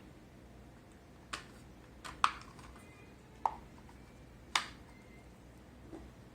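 Five sharp clicks and taps of hard parts being handled during a disassembly, spaced about a second apart, a few with a brief ringing after them.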